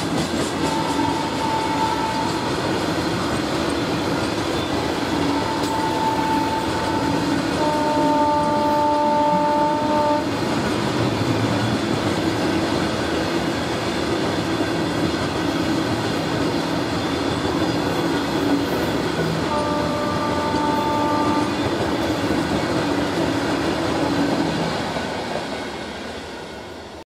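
Freight train of covered wagons rolling past with a steady rumble and wheel clatter, while Indian Railways electric locomotive horns sound several times. There are short single-tone blasts about a second in and again around six seconds, a louder two-tone blast around eight to ten seconds, and another two-tone blast around twenty seconds. The sound fades out near the end.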